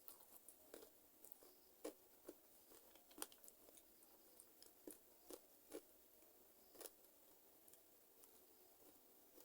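Close-miked eating of chicken feet: quiet chewing broken by scattered sharp crunches and clicks of biting, busiest in the first seven seconds.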